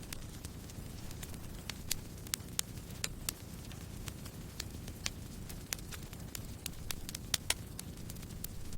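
Campfire burning: a steady low rumble of flames with irregular sharp crackles and pops of burning wood, a few louder pops among them.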